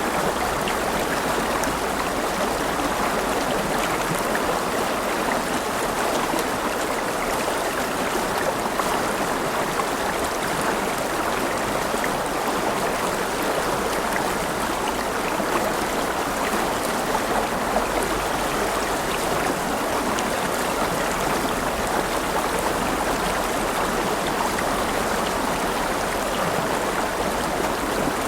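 River water flowing and splashing steadily, a continuous rush with small gurgles and drips.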